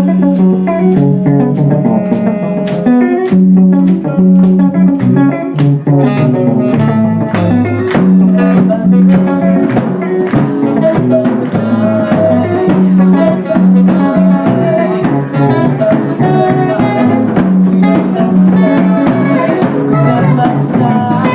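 A band playing an instrumental passage of a song, with guitar and a steady drum beat.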